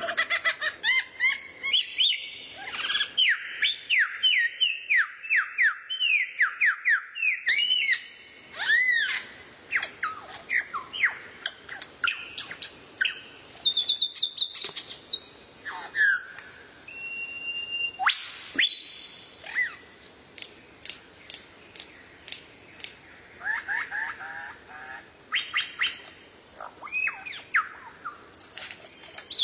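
Songbird singing a varied song: a fast run of repeated sweeping notes over the first several seconds, then scattered whistles, chirps and short trills broken by pauses.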